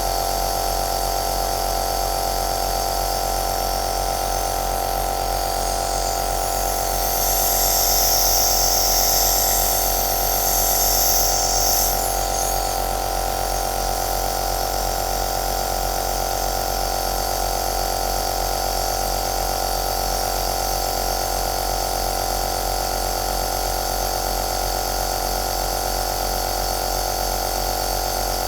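Electric compressor nebulizer running steadily, a constant motor hum and whine with a hiss. About seven seconds in the hiss grows louder for about five seconds, then settles back.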